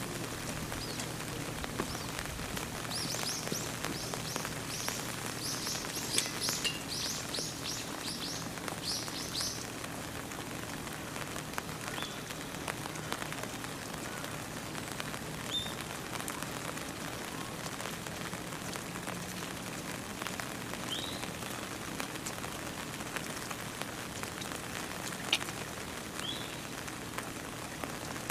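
Steady rain, with small birds chirping: a quick run of high chirps a few seconds in, then a single chirp now and then.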